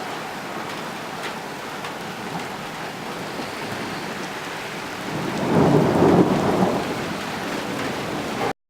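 Steady summer rain falling, with a rumble of thunder swelling up about five seconds in and dying away over a couple of seconds; the sound cuts off suddenly near the end.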